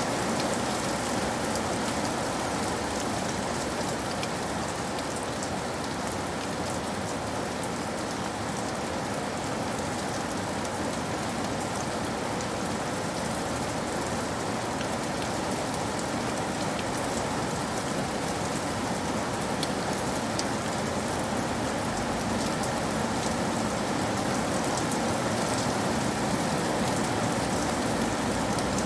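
Steady rain falling and pattering on a surface, an even hiss of drops with no let-up.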